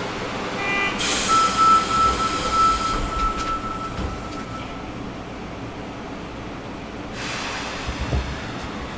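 Sendai subway 1000N series car at a station stop with its doors closing: a hiss and a thin, steady, high buzzer tone lasting a few seconds, then a low thump and, about seven seconds in, another hiss as the train readies to pull away.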